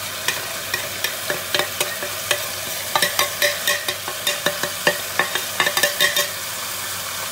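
Beef bones, onions and tomatoes frying in oil in a pressure cooker, a steady sizzle. Over it come many sharp clicks and crackles, thickest in the middle of the stretch.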